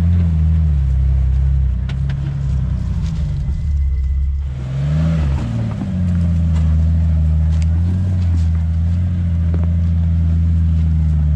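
Jeep Wrangler (TJ/LJ) engine running at low revs, with brief rises and falls in pitch as the throttle is blipped, once near the start, once about halfway and a smaller one later. A few short knocks sound over it.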